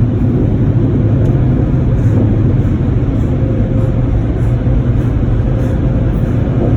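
Automatic car wash machinery running around the car, heard from inside the cabin: a steady, loud rushing noise with a low hum underneath.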